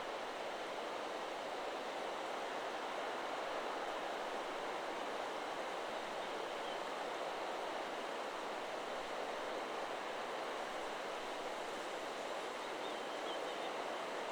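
Steady wind rustling through forest trees, an even hiss of leaves with no chime strikes heard.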